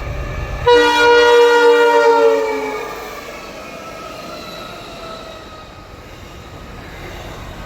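Pacific National diesel freight locomotives passing at speed: a deep engine rumble, then about a second in the horn sounds a multi-note chord for about two seconds, its pitch sinking slightly as it goes by. After the horn the rumble of the passing train fades to a steady wash of wheel and wagon noise.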